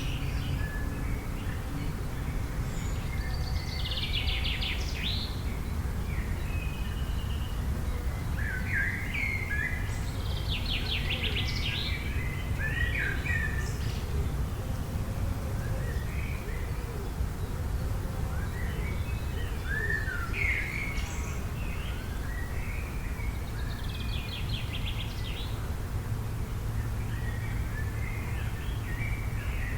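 Several songbirds chirping and singing, with short rapid trills here and there, over a steady low background rumble.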